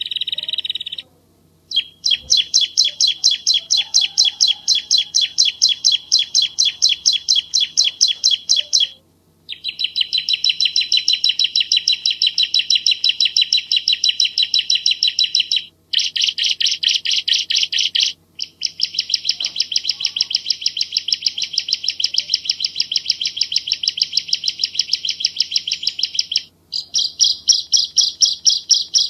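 Bar-winged prinia (ciblek Jawa) singing loud runs of rapid, evenly repeated chirps, several seconds each, broken by short pauses.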